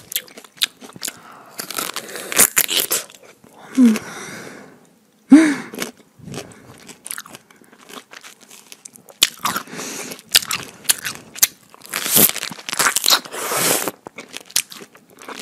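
Fresh pineapple being bitten and chewed with loud, wet lip-smacking right at a clip-on microphone: irregular crunches, squelches and smacks, with a couple of short voiced noises about four and five seconds in.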